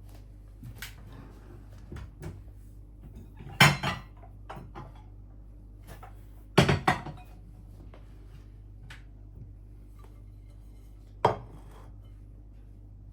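Dishes and cutlery clinking and knocking while food is prepared. The sounds are scattered; the loudest come about four and seven seconds in, and another about eleven seconds in. A steady low hum runs underneath.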